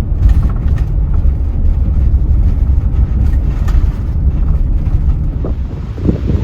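Strong wind buffeting the microphone: a loud, steady low rumble with a hiss of wind above it.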